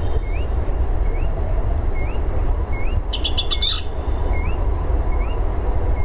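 Birdsong: a bird repeats a short rising chirp a little more than once a second, with a brief rapid trill about three seconds in. A steady low rumble runs underneath.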